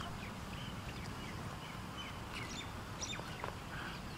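Birds chirping in short, scattered calls over a steady low rumble of open-air background noise.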